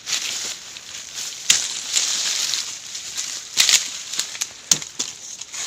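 Footsteps and rustling through dry leaf litter and forest undergrowth, with sharp crackles now and then.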